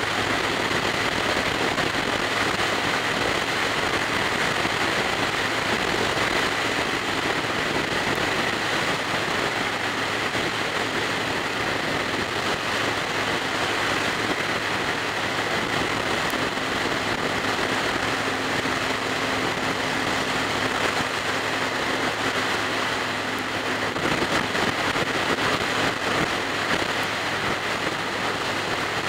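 Steady wind rush on a helmet microphone over the even drone of a Yamaha Raider's V-twin engine at highway cruising speed.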